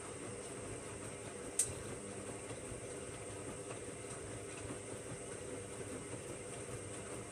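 Hoover Logic washing machine running partway through a cotton 60 cycle, its motor and drum giving a steady hum, with one sharp click about a second and a half in.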